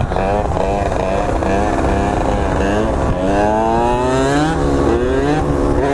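Small two-stroke dirt bike engine revving up and down as it is ridden, its pitch climbing in repeated rising sweeps and dropping between them.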